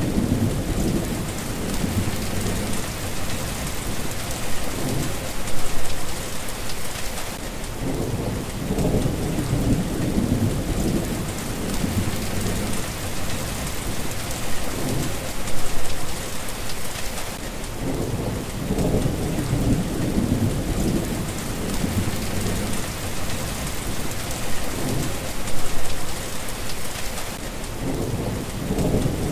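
Steady rain falling, with thunder rumbling low and rolling underneath. There are three louder swells about ten seconds apart.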